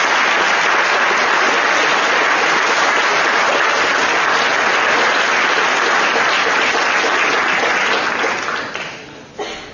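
Audience applauding in a hall: a dense, steady clapping that dies away about nine seconds in.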